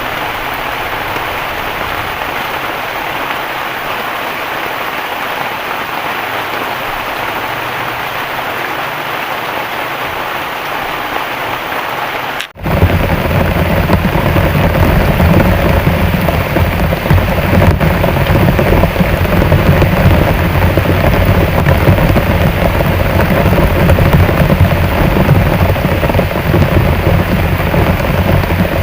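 Heavy rain falling steadily. About halfway through, the sound drops out for an instant and comes back louder, with a deep steady rumble under the rain.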